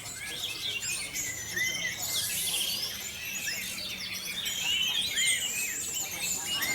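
Several orange-headed thrushes singing at once: many overlapping whistles, chirps and quick rising and falling phrases with no pause.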